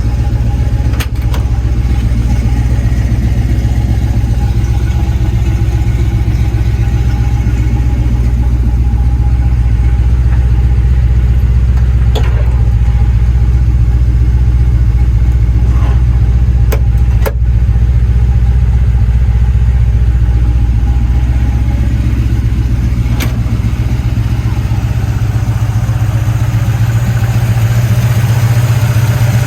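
A 1957 Chevy truck's V8 engine idling steadily, with a few short sharp clicks over it.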